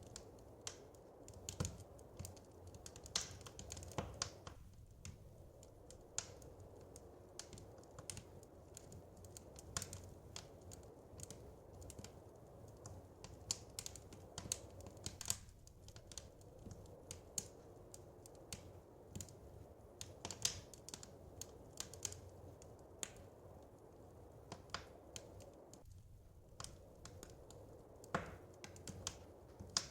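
Wood fire crackling in a fireplace: irregular sharp snaps and pops, several a second, over a low steady background.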